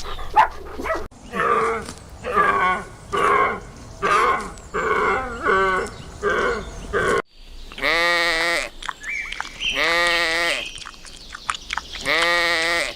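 Animal calls: a quick series of about eight short pitched calls, then, after a cut, three long calls, each nearly a second, about two seconds apart.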